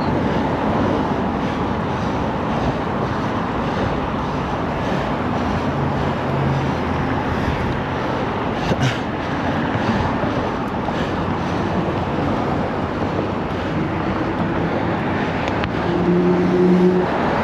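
Steady rush of wind and road noise from riding a bicycle, mixed with nearby motor traffic. A sharp click comes about nine seconds in, and short low tones are heard around six seconds in and again near the end.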